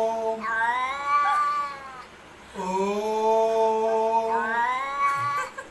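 A cat and a man mimicking it trade long, drawn-out yowls. Twice, a lower wail is followed straight away by a higher one, each held at a steady pitch.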